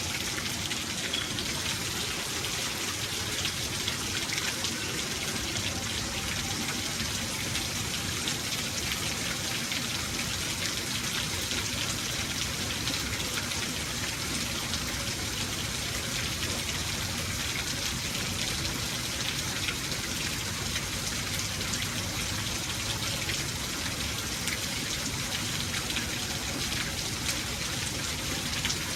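Steady rain falling, an even hiss of many small drops with fine scattered patter.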